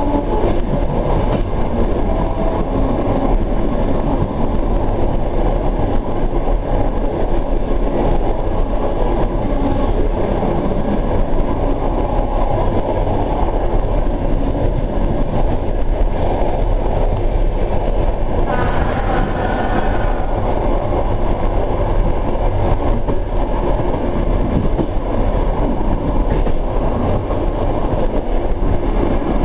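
Suburban train running on the rails, heard from inside the carriage: a steady rumble of wheels and running gear. A brief higher-pitched sound rises over it about two-thirds of the way through.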